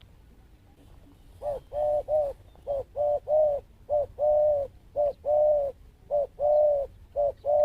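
Zebra dove cooing: a rhythmic run of clipped coos, quick short notes alternating with longer held ones, starting about a second and a half in.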